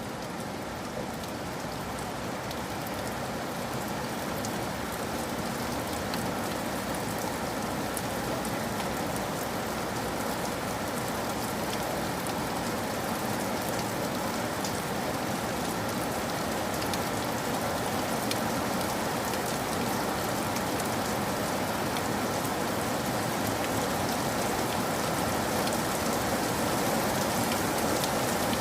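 Steady rain falling and pattering on surfaces, with scattered drop ticks, slowly growing louder.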